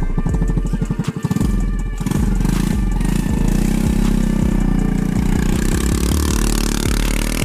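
Small Honda motorcycle engine with no muffler, running with a rapid, even popping, then picking up speed and running harder from about two seconds in.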